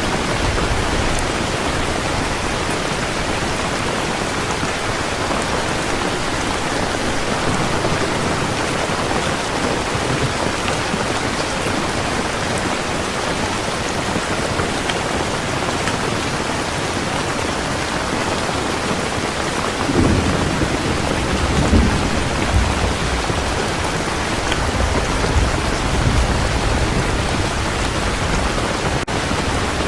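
Heavy rain falling steadily in a thunderstorm. Low rolling thunder rumbles in about two-thirds of the way through and goes on to the end, swelling a few times.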